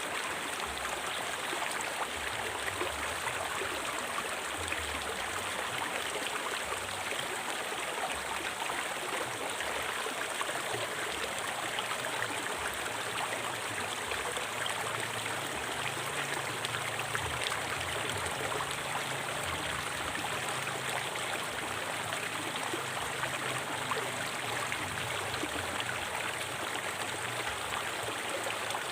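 A river flowing over rocks, a steady rushing and gurgling of water without a break.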